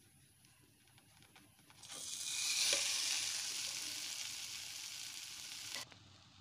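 A cabbage-and-egg pancake sizzling in hot oil as it is slid from a plate into a hot frying pan. The sizzle starts suddenly about two seconds in, is loudest right away, eases off slowly and cuts off abruptly near the end.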